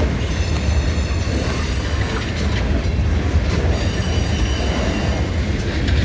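Freight train cars rolling past, a steady heavy low rumble with high-pitched wheel squeal that comes in twice.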